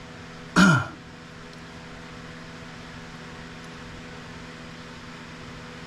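Steady mechanical hum with several fixed low tones, like a running fan. About half a second in there is one short, loud sound that falls in pitch, most like a brief vocal utterance.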